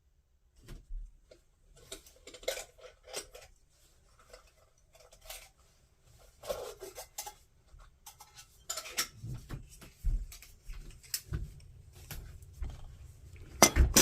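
Light metallic clinks and knocks of a small titanium mug being handled and set on the thin spit bars of a lightweight folding fire pit, with a louder knock near the end.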